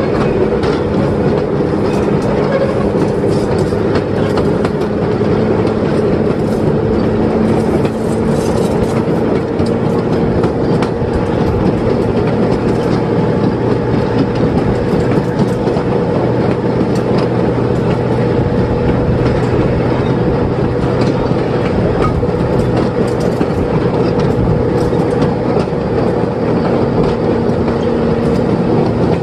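Railroad speeder riding along the track: its small engine hums steadily, with frequent clicks and rattle from the wheels on the rails.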